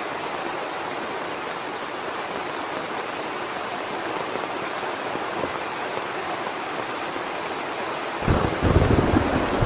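Heavy rain falling steadily as an even hiss; about eight seconds in, a loud deep rumble of thunder breaks in over it.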